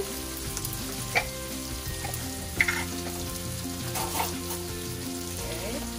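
Diced onion and smoked pork sizzling steadily in a stainless steel skillet, with three sharp clinks at roughly even intervals as they are stirred.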